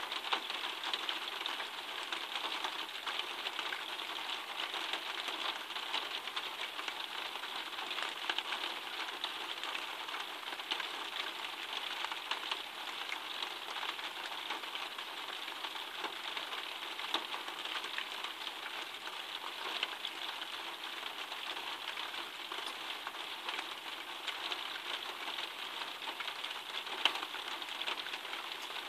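Steady rain pattering down, an even hiss dense with small drop ticks.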